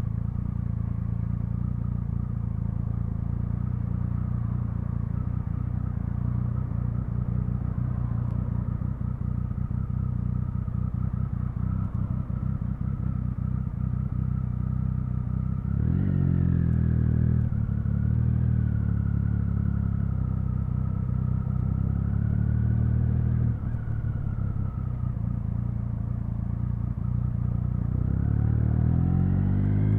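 Triumph Speed Triple 1050's three-cylinder engine and exhaust running at low revs, with a short rise in revs about halfway through and revs climbing steadily near the end as it accelerates.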